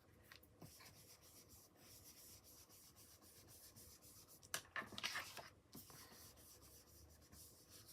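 Faint rubbing of an ink blending tool working black ink into smooth cardstock, with a louder scrub lasting about a second a little past the middle.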